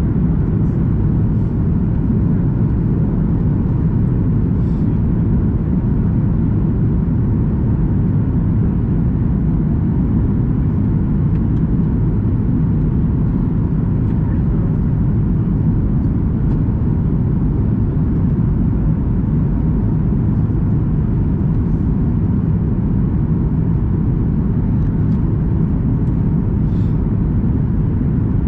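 Steady low cabin roar of a Boeing 737 MAX 8 in flight on descent: airflow and CFM LEAP-1B engine noise heard inside the cabin, with a faint steady tone in it.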